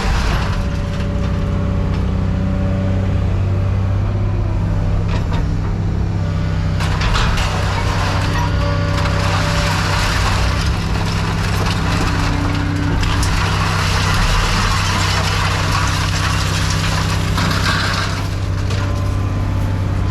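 Heavy scrap-yard machinery running steadily with a low engine drone, while scrap metal crunches and scrapes in stretches and clanks now and then.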